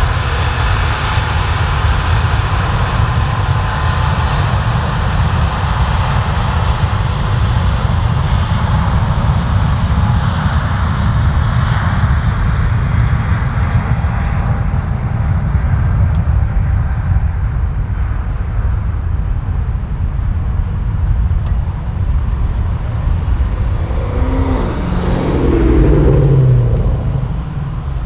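Jet airliner's engines rumbling loudly as it passes, with a high whine that slowly falls in pitch over the first half. A louder swell of noise rises near the end.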